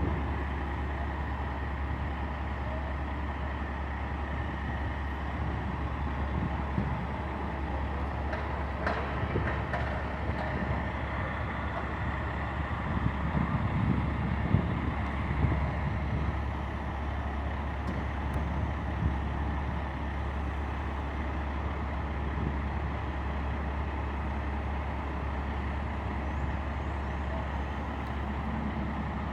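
A large truck's engine running steadily, with a few brief clanks about a third and halfway through.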